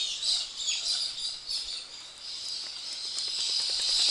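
Birds chirping and calling over a steady high chorus, with a faint run of quick, even ticks starting about halfway through.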